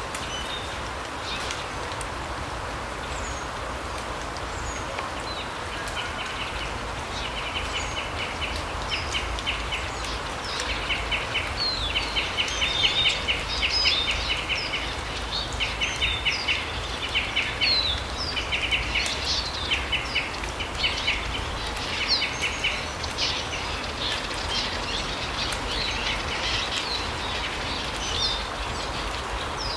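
Small forest birds calling: short high chirps throughout and, from about six seconds in until past twenty seconds, bursts of quick rattling trills, over a steady background hiss.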